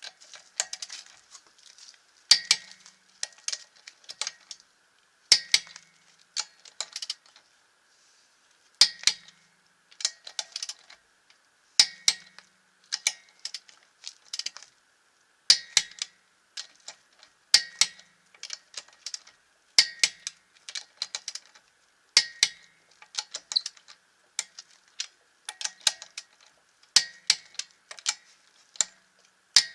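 Click-type torque wrench tightening wheel lug nuts: a sharp metallic click about every two seconds, each followed by a few lighter metal clicks.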